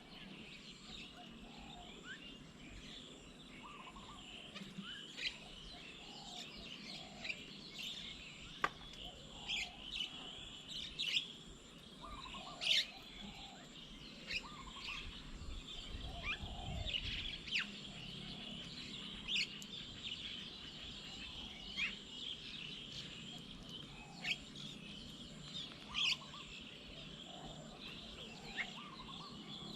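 Several birds calling around a bird table: many short, sharp high chirps scattered irregularly, with softer, lower notes repeating underneath.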